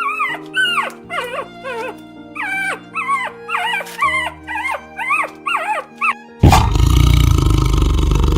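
A quick series of short animal yelps, each rising then falling in pitch, about two a second, over background music with held notes. About six seconds in, a loud, rough roar cuts in suddenly and holds.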